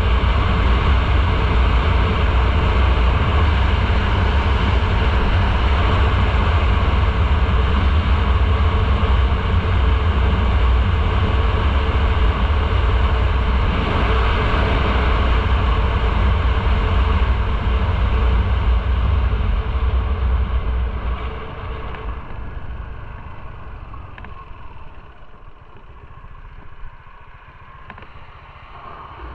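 Motorcycle running at speed, a steady engine rumble mixed with rushing wind noise. About three-quarters of the way through it falls away quickly as the bike slows, leaving a much quieter, low engine sound.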